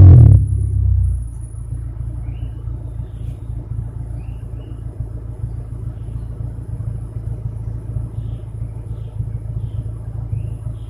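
Honda Civic D16 four-cylinder exhaust through a Spoon muffler on stock piping: the revs drop back within the first second, then it idles with a steady low rumble.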